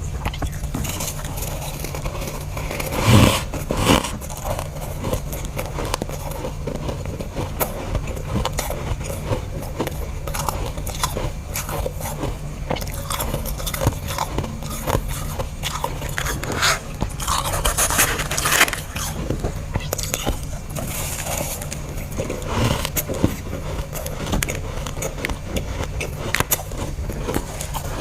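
A person biting and chewing chunks of dry, powdery freezer frost: repeated crunches with squeaks, the loudest bite about three seconds in.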